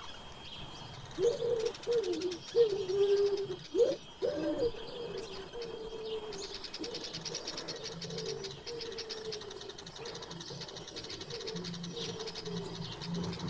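A dove cooing, its loudest low phrases about a second in for some three seconds, then softer. Small birds chirp high and fast throughout.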